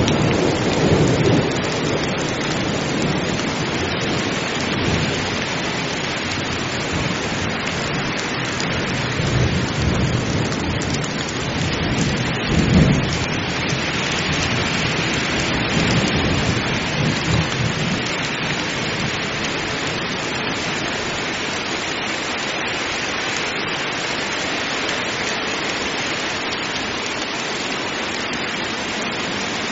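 Heavy rain pouring steadily during a thunderstorm, with several rolls of thunder rumbling low underneath. The loudest roll comes about thirteen seconds in, and the rain carries on evenly after the thunder dies away.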